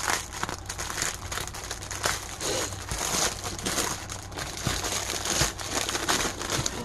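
Small plastic bags of diamond-painting drills crinkling and rattling as they are handled, with many small irregular clicks and crackles.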